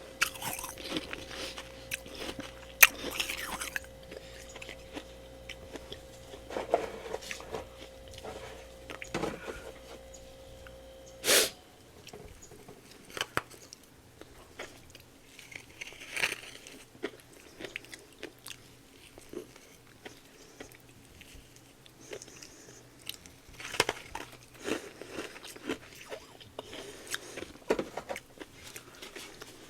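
Freezer frost being bitten and chewed in a series of crisp, crackling crunches. A steady low hum and a faint steady tone sit underneath for the first eleven seconds or so, then stop just after a loud short sound.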